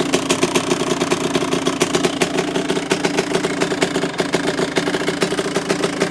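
Kawasaki two-stroke dirt bike engine idling steadily with a rapid pulsing exhaust beat while it warms up after a cold start.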